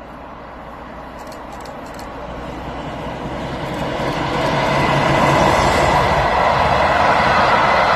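A train approaching on the line, getting steadily louder over about five seconds and then running loud and steady as it comes close.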